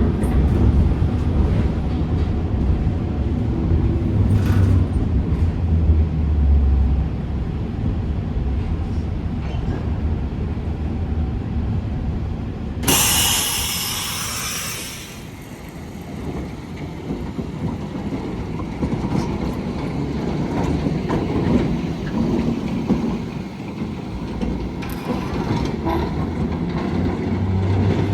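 Heritage tram running on rails, a steady low rumble. About halfway through, a loud hiss lasts about two seconds.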